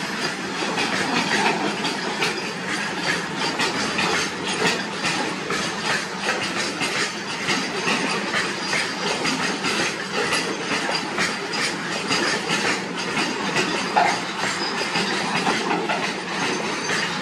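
Loaded freight wagons of a goods train rolling past: a steady rumble of steel wheels with a rapid, irregular clatter as they run over the rail joints. One short, louder squeal stands out about fourteen seconds in.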